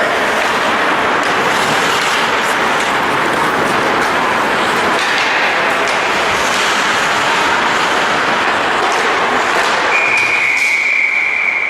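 Loud, steady rushing noise. About ten seconds in, a single steady high-pitched tone joins it and holds to the end.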